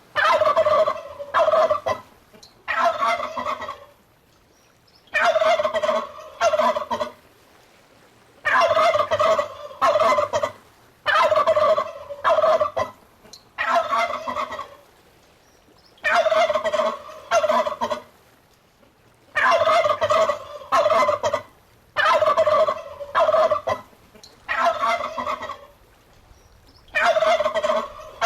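Turkey gobbling over and over. Each gobble is a loud warbling rattle a second or two long, repeated every couple of seconds with short silences between.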